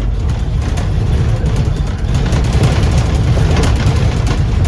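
Engine noise heard from inside a Scania N230UD Optare Olympus double-decker bus as it drives along. The rear-mounted five-cylinder diesel runs steadily, with brief interior rattles and clicks over it.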